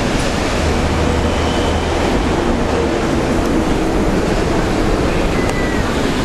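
KCR East Rail electric trains running through the platform: a steady, loud rolling noise of wheels on rail, with a brief high squeal about five and a half seconds in.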